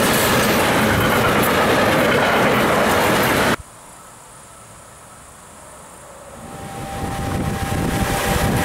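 Freight train of red car-carrier wagons rolling past close by, a loud, steady rolling noise of wheels on rail that cuts off abruptly about three and a half seconds in. After a quieter pause, the noise of a second train approaching swells over the last two seconds.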